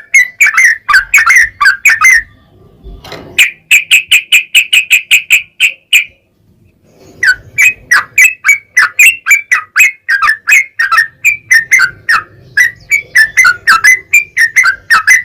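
Yellow-vented bulbul (trucukan) singing a long, rapid run of loud, bubbly notes, about five to six a second, with two short pauses about two and six seconds in.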